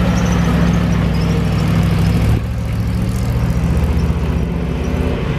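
1972 Chevrolet C60 fire truck's 366 gas V8 engine running steadily with a deep, even hum. About two and a half seconds in, the higher part of the sound drops away abruptly and it gets slightly quieter.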